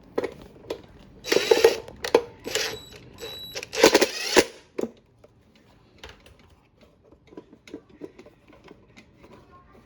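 Metal parts and hand tools clattering and clicking during hands-on repair work on a clothes dryer, with three louder scraping, rattling bursts in the first half, one with a brief metallic ring, then lighter scattered ticks.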